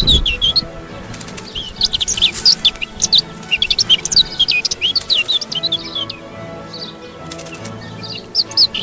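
Small songbirds calling in many quick, sharp chirps, with low, steady background music underneath.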